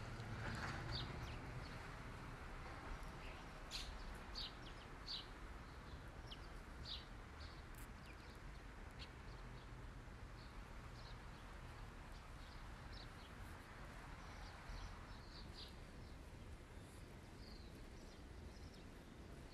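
Faint outdoor nature ambience: a steady low hiss with scattered short, high bird chirps throughout.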